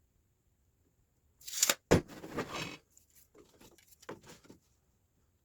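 Workshop handling noise as cut boards and tools are moved: a short scrape, a sharp knock just under two seconds in, then rustling and a few light knocks that die away.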